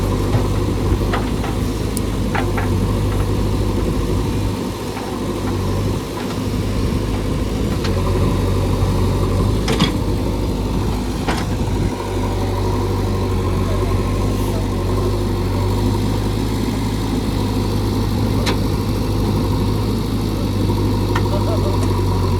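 JCB 3DX backhoe loader's diesel engine running steadily, with scattered sharp knocks and clicks over it and a brief dip in engine sound a few seconds in.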